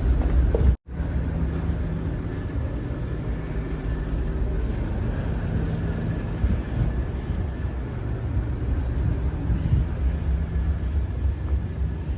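A vehicle engine running steadily with a low hum, cut off briefly about a second in and then continuing.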